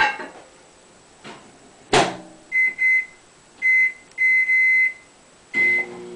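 Microwave oven door shut with a bang, followed by five high keypad beeps as the cook time is set, the fourth beep long, then the oven starts running with a steady low hum near the end.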